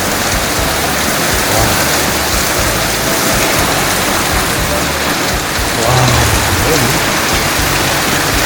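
Heavy rain pouring down in a steady, loud hiss, a downpour heavy enough to remark on.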